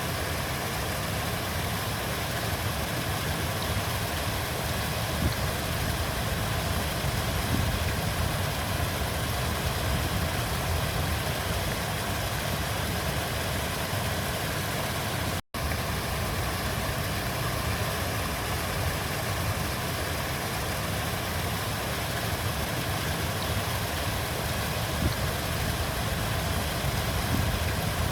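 River water flowing steadily: a continuous deep rushing noise, with a split-second dropout about fifteen seconds in.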